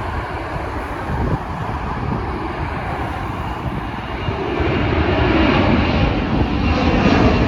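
Boeing 767 jet engines at takeoff power, a steady roar that grows louder from about four seconds in as the airliner draws closer.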